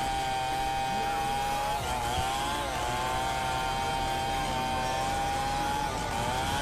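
Chainsaw running at high speed. Its pitch sags briefly twice as it bogs down under load in the wood, then recovers.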